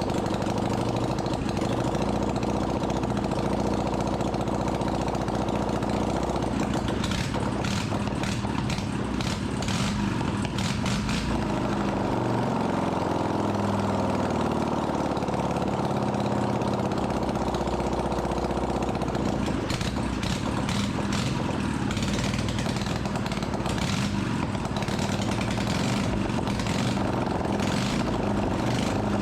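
Freshly rebuilt Dnepr motorcycle flat-twin engine running on its first run after restoration. The engine speed shifts up and back down about halfway through.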